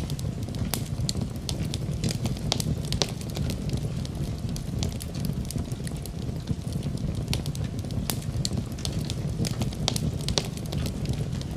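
Fire in a fireplace crackling, with many sharp, irregular pops over a steady low rumble of the flames.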